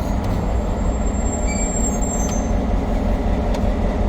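Diesel engine of the P20 shunting locomotive running steadily at low power, a deep even rumble, with a faint thin high-pitched squeal over the first couple of seconds.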